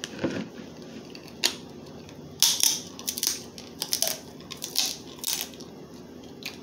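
Crab leg shells cracking and snapping as they are broken open to get at the meat: a run of sharp, irregular cracks, loudest about two and a half seconds in.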